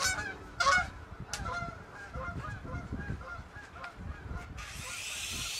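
Geese honking repeatedly, with a few sharp knocks in the first second or so. Near the end the sound changes suddenly to a steady hiss with a thin high whine.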